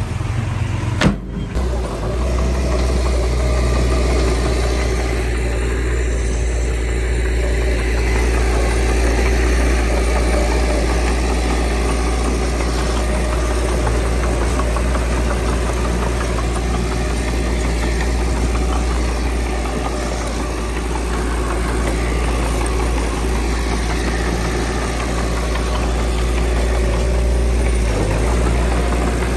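Diesel engine of heavy earthmoving machinery running steadily with a deep, even hum. The sound breaks off sharply for a moment about a second in.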